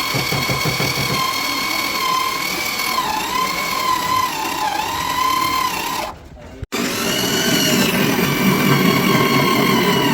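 A handheld electric power tool running with a steady high whine. Its pitch sags a few times as it bears on the work. It cuts out for about half a second a little past halfway, then runs again.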